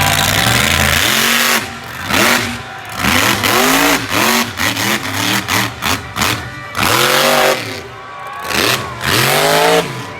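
Monster truck engine held at high revs for about a second, then revved in a series of quick blips, each one rising and falling in pitch, over and over.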